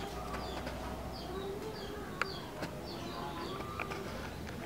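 Small birds chirping in the background: short falling chirps repeated about twice a second over steady outdoor noise, with one sharp click about two seconds in.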